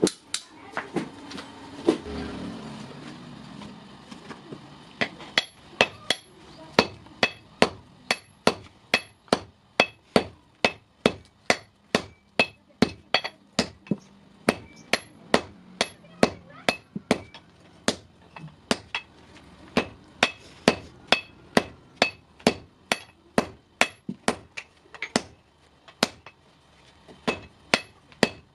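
Blacksmith's hammer striking steel on an anvil while forging a hasua blade by hand. A few scattered blows come first, then from about five seconds in a steady run of about two strikes a second, each with a ringing note.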